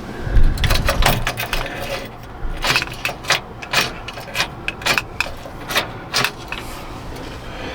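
Small metal objects clicking and clinking, a dozen or so sharp irregular clicks for several seconds that stop near the end.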